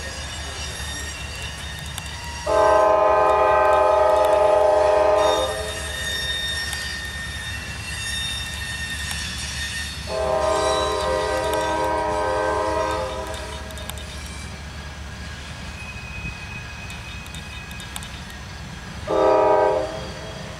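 Loaded coal hopper cars rolling past with a steady low rumble and faint high wheel squeal, while a diesel locomotive horn sounds two long blasts and then a short one near the end, the opening of the grade-crossing warning pattern.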